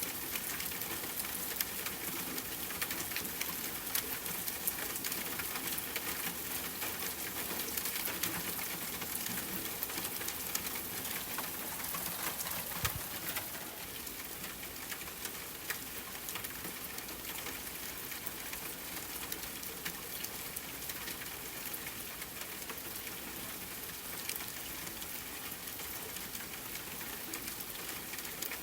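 Steady rain falling, with scattered small crackles and pops of a campfire through it; it eases slightly about halfway through.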